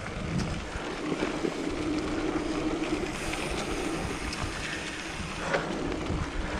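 Wind rushing over the microphone while riding a mountain bike, with a steady low hum and a few light ticks underneath.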